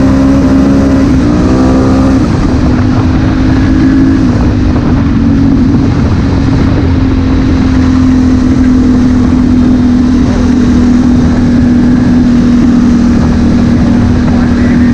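Honda Africa Twin CRF1000L's parallel-twin engine under way, revving up through a couple of gear changes in the first two seconds, then running at a steady speed, with wind and road noise.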